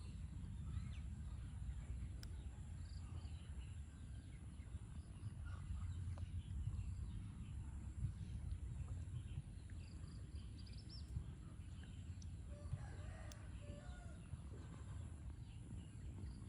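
Chickens clucking faintly, scattered short calls over a steady low rumble.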